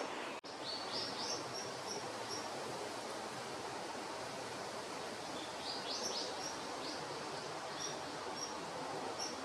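Small birds chirping with short, high repeated notes over a steady outdoor background hiss, with a cluster of quick rising chirps about a second in and again around six seconds. The sound cuts out for an instant just after the start.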